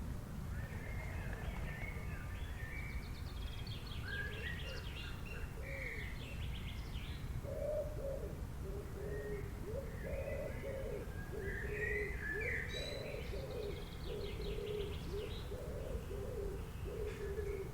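Birds chirping and trilling in high, quick phrases, joined about halfway through by a low call repeating over and over, over a steady low background rumble.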